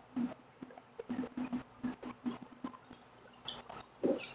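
Close-up chewing of fried toscana sausage, soft mouth sounds repeating a few times a second. Near the end come crisp crunches as a raw watercress stem is bitten.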